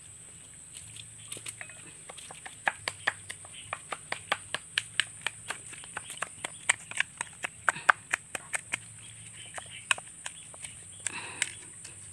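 Chopped chilies being pounded and crushed in a glass bowl with a small hand-held pounder: a run of sharp clicks and knocks against the glass, about three a second. They start about a second in and thin out near ten seconds.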